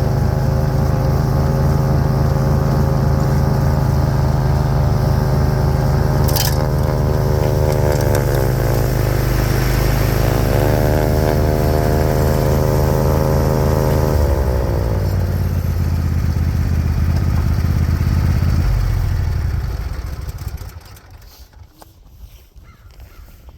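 Craftsman YT4000 lawn tractor engine running a Craftsman/Bercomac 44-inch snowblower through heavy wet snow, with a sharp click about six seconds in. The engine note dips and recovers around nine to eleven seconds in, changes again near fourteen seconds, then winds down and stops about twenty seconds in.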